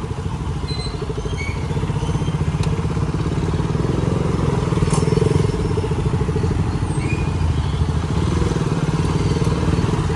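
Motorcycle engine running at low speed with a steady, rapid pulse, as the bike creeps through a traffic jam.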